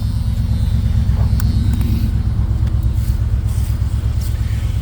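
1974 Chrysler Imperial's original 440 cubic-inch V8 with four-barrel carburettor idling steadily at its normal low idle, just dropped off the fast idle of a cold start.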